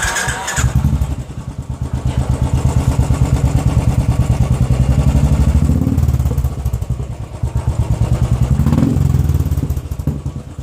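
Royal Enfield Classic 500's single-cylinder engine catching at the start and then idling through a modified short bottle silencer packed with glass wool, a steady deep thumping beat of about seven pulses a second.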